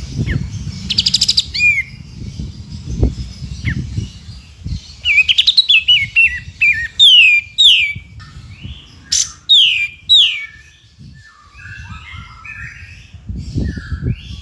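Several songbirds singing, a mixed masteran recording. A rapid clicking trill comes about a second in, then a run of sharp, falling whistled notes from about five to ten seconds, and scratchy chattering notes near the end, over a low rumbling noise.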